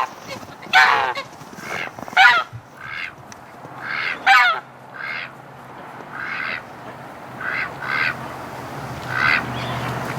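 Domestic geese honking, about a dozen calls one after another, some drawn out with a bending pitch and others short.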